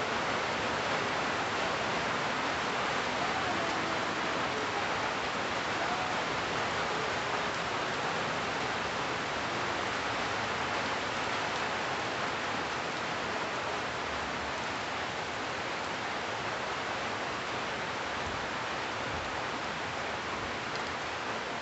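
Steady rain falling on the leaves of trees, an even hiss with no let-up.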